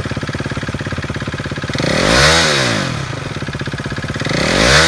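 2016 KTM RC 390's liquid-cooled, fuel-injected single-cylinder engine idling, blipped twice: the pitch rises and falls about two seconds in and again near the end.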